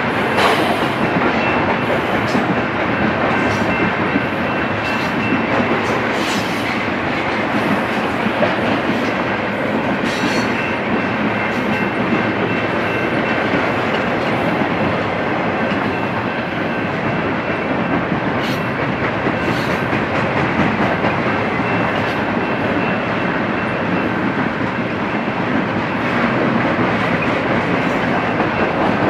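Double-stack intermodal container cars of a BNSF freight train rolling past: a steady rumble and clatter of steel wheels on rail, with several sharp clanks and a faint high-pitched ring that comes and goes.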